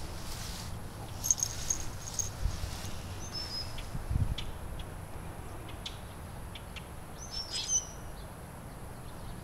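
Wild birds chirping: several short, high chirps and quick falling notes, a few at a time, over a steady low rumble. There is a low thump about four seconds in.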